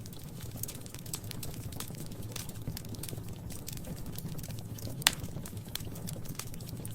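Wood fire crackling in a fireplace: irregular small pops and snaps over a low steady rumble, with one loud sharp pop about five seconds in.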